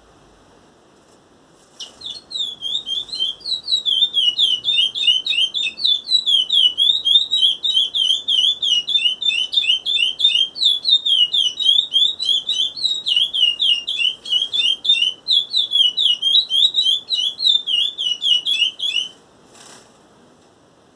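A seven-month-old chestnut-bellied seed finch (curió) singing: a long, fast run of clear whistled notes, each sliding down in pitch. It starts about two seconds in and stops about two seconds before the end.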